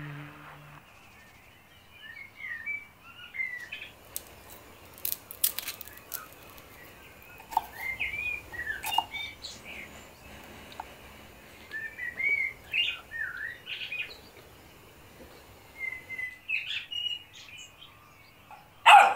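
Small songbirds chirping and singing in short, quick phrases, with a few sharp clicks in between.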